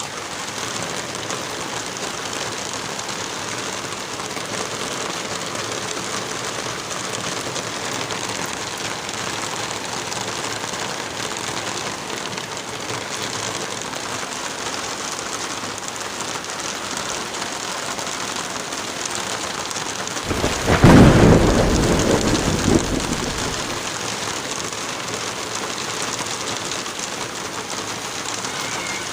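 Steady heavy rain falling, with one loud clap of thunder about two-thirds of the way through that rumbles for about three seconds before fading back under the rain.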